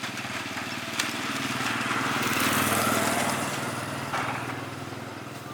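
An engine on the repaired farm machine running with an even, rapid pulse, growing louder toward the middle and easing off near the end.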